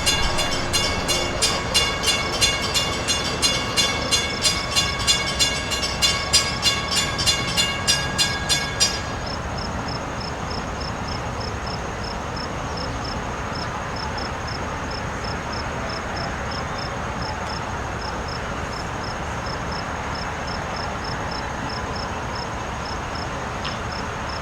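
A 10-car LIRR M3 electric multiple-unit train passing a grade crossing, its wheels clacking rhythmically over the rail, with the crossing bells ringing. The train sound cuts off suddenly about nine seconds in, leaving a steady hiss and a faint insect chirping a few times a second.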